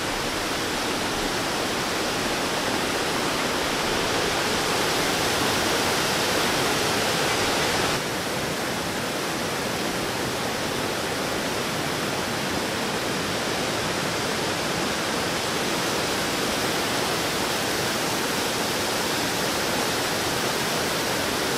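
Waterfall roaring up close, a steady loud rush of falling water that dips slightly about eight seconds in.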